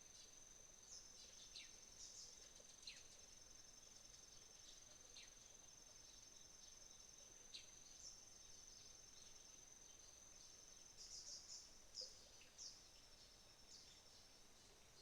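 Autumn insects, crickets among them, trilling faintly: one steady high-pitched trill with a second, pulsing trill just below it. Short, quick falling bird calls come every second or two, bunched together about eleven to thirteen seconds in.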